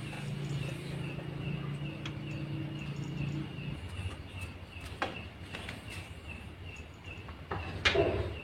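Crickets chirping steadily at night, with a low hum that stops about halfway through. A couple of sharp knocks come midway and near the end, and the last one is the loudest thing heard.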